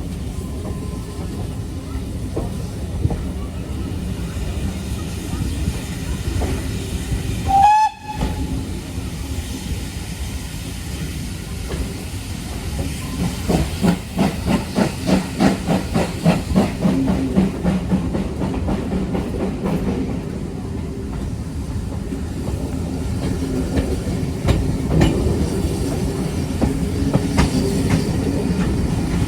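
Train on the heritage line: a short whistle sounds about eight seconds in, followed by a run of rhythmic beats over a steady rumble, plausibly steam locomotive 5541 working its passenger train.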